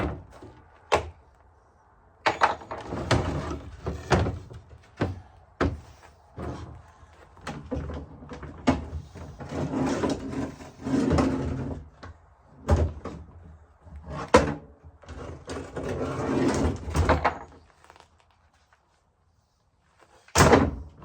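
Irregular knocks, thunks and clatter of wooden pieces and tools being handled and set down on a workbench, with no drill running. Near the end it goes quiet, then there is one more sharp knock.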